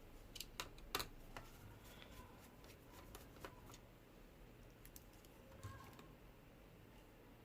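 Faint, scattered light clicks and taps of small hard objects being handled, irregular, the loudest about a second in, over near silence.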